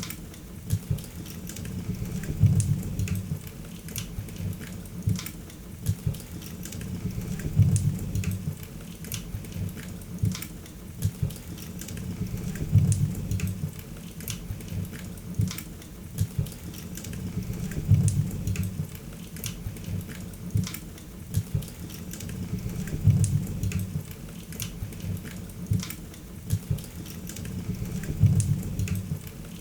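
Wood fire in a fireplace crackling, with many small sharp pops over a low rumble of flames that swells about every five seconds.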